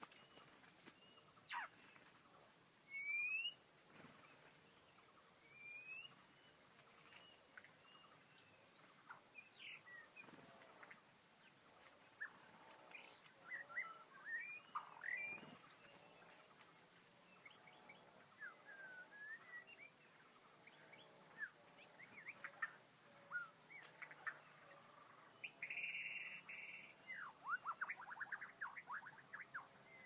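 Small wild birds calling faintly: scattered short upslurred whistles and chip notes, with a quick run of notes near the end.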